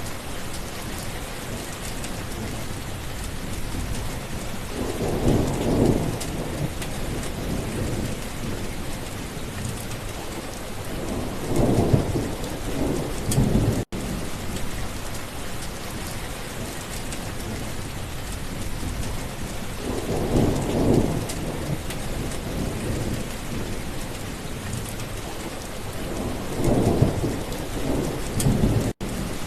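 Steady rain falling, with thunder rumbling four times: about 5, 12, 20 and 27 seconds in. The sound cuts out for an instant about halfway through and again near the end.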